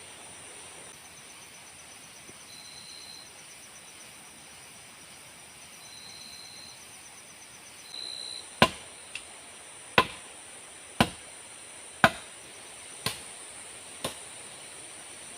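A hand tool striking wood in six sharp blows about a second apart, with a lighter tap after the first, starting a little past halfway. Steady high-pitched insect chirring of the forest runs beneath.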